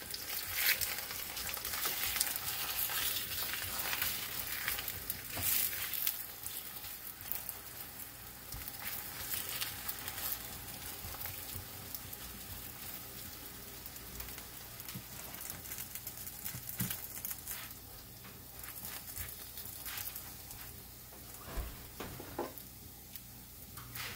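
Roti dough frying in hot oil in a skillet on medium-high heat, a steady sizzle that is loudest for the first several seconds after the dough goes in, then settles to a quieter sizzle.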